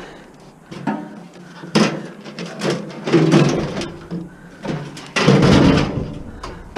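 A heavy microwave oven being shifted and handled: a series of knocks and metal clatters, loudest about five seconds in.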